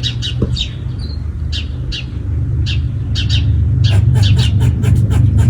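Small birds chirping, short high chirps coming two or three a second. Under them runs a steady low rumble that grows louder about halfway through.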